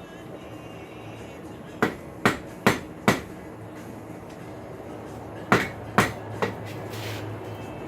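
Hand hammer striking a hot steel farrier's rasp on an anvil while it is forged into shape: four sharp blows about half a second apart, a pause, then three more, the last one lighter. A steady low hum runs underneath.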